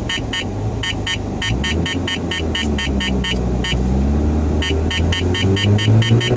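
Mazda RX-7's 13B rotary engine running, its pitch rising slightly twice as it picks up revs. A rapid, high-pitched ticking repeats about four to five times a second over it, stopping for about a second in the middle.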